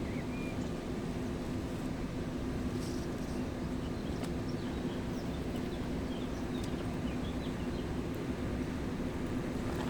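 Steady rushing of a mountain river, the Gave de Pau, with small birds chirping briefly now and then through the middle, over a steady low hum.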